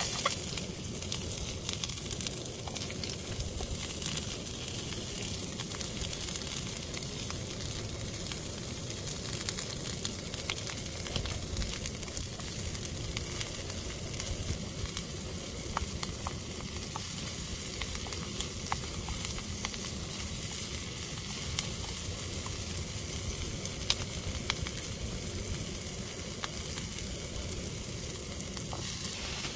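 Chopped red onion frying in a stainless steel pan on a small gas camping stove: a steady sizzle with many small crackles.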